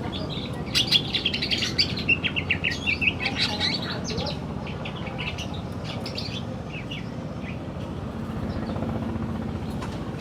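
Male green leafbird (cucak ijo) singing: a quick, dense run of high chirping and whistled notes for the first few seconds, then scattered single notes, over a steady low background rumble.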